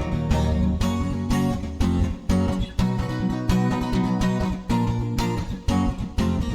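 Steel-string acoustic guitar, a Crafter DN-6, strummed in a steady rhythm of chords.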